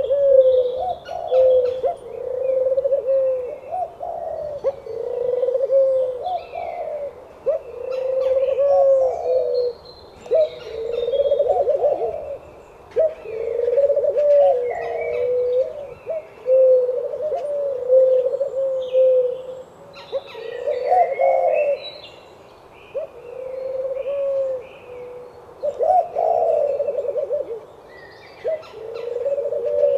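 Doves cooing over and over in a near-continuous run of low, repeated coos, with short higher chirps and tweets scattered above them.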